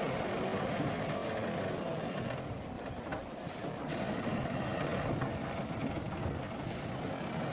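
Heavy diesel earthmoving machinery running steadily. A few short high-pitched sounds come through around the middle and again near the end.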